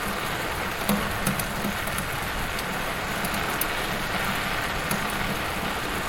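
Wood fire burning in a fireplace: a steady hiss with scattered sharp crackles and pops, a few each second or two.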